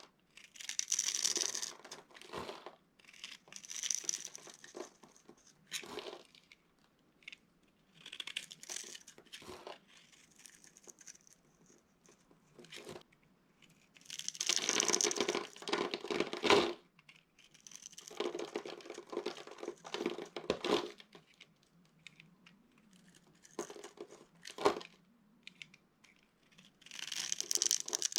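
Dry soap being crushed and crumbled by hand, in about a dozen separate crunching bursts with short pauses between them, the longest around the middle. Two sharp cracks stand out, one past the middle and one near the end.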